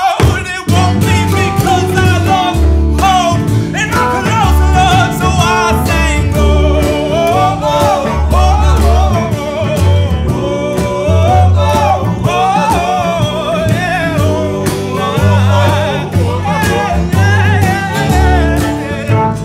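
Live country-style band music: a wavering lead melody over guitar, a pulsing bass line and drums.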